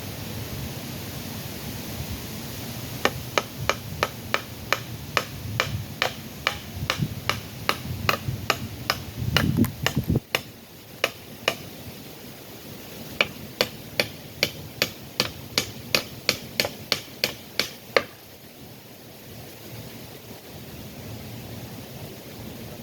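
Hammer driving nails to fix a bird/bat house to a tree. Two runs of quick, even strikes, about three a second, with a pause of a couple of seconds between them.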